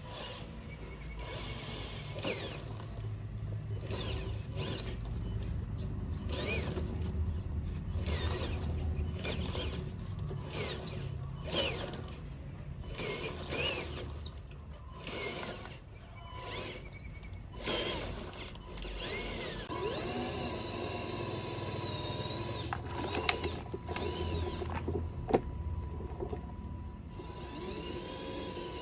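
Small electric motors and gearboxes of radio-controlled construction models, whining at changing speeds, with repeated clicks and knocks as the machines work. A steady whine starts about two-thirds of the way through.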